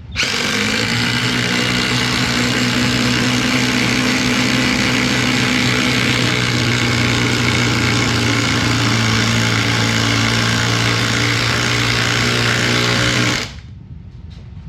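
Cordless impact driver running steadily at full speed for about thirteen seconds, then stopping suddenly.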